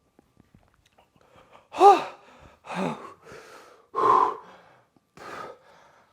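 A man gasping and breathing hard through his mouth: about five sharp breaths starting about two seconds in, the first and loudest with a short voiced catch. It is his reaction to the burn of hot sauce.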